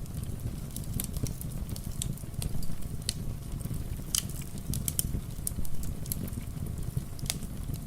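Wood fire crackling, with irregular sharp pops a few times a second over a steady low rumble of rain.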